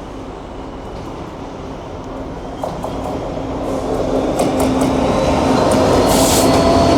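GB Railfreight Class 66 diesel locomotive approaching, its two-stroke V12 engine growing steadily louder. Sharp clicks from the wheels on the rails come in over the second half.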